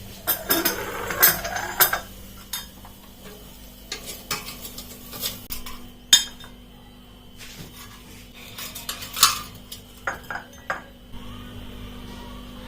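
Pieces of air-fried chicken being moved into a serving bowl, with irregular clinks and scrapes of utensils and dishes. A faint steady hum runs underneath.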